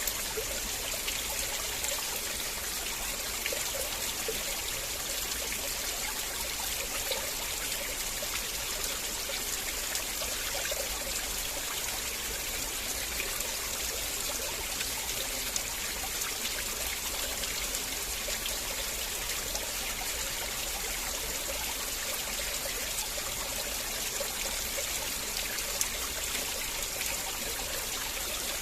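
River water flowing and trickling steadily, a continuous even rush of water.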